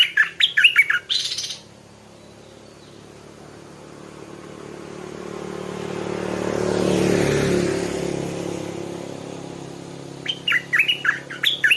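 Stripe-throated bulbul singing a short burst of quick, choppy song phrases, ending about a second and a half in, then again near the end. In between, a passing vehicle swells and fades, loudest just past the middle.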